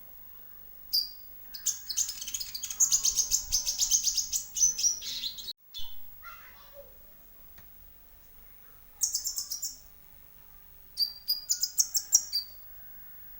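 Konin (kolibri ninja) sunbird song from a lure recording: bursts of rapid, high chirps and trills. A long fast trill runs from about two seconds in to about five and a half, with shorter bursts around nine and twelve seconds.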